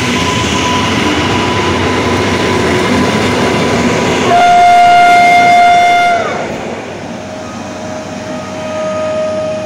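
Electric passenger trains running past a platform, a steady rumble with a thin whine. About four seconds in a train horn sounds one loud steady note for about two seconds, dropping in pitch as it cuts off. Near the end a fainter steady tone runs on over the passing train.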